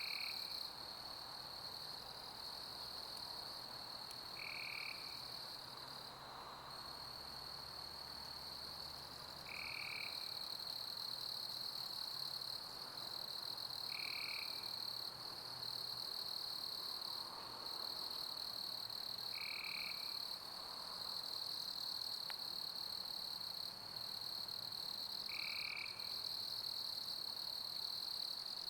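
Summer crickets chirping in a steady, high-pitched chorus, with a soft background hiss. A short, lower call repeats about every five seconds.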